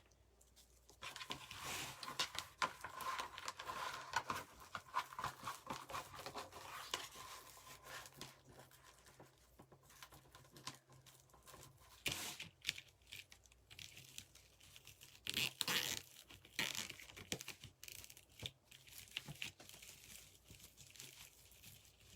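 Wreath mesh being handled, crinkling and rustling in irregular bursts, louder for a few seconds near the start and again around the middle.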